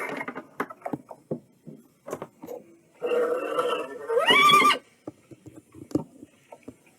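A horse neighing about three seconds in: a rough, breathy start that rises into a pitched whinny, holds, then stops. Short scattered clicks and knocks come before it.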